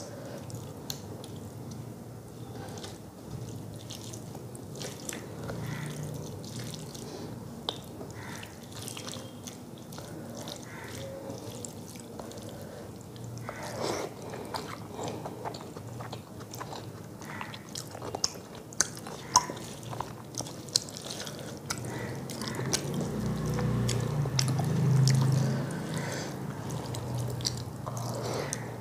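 Close-miked wet chewing, lip smacks and small sharp mouth clicks of someone eating rice and fish curry by hand, with fingers squishing rice on a metal plate. The chewing gets louder for a few seconds about two-thirds of the way in.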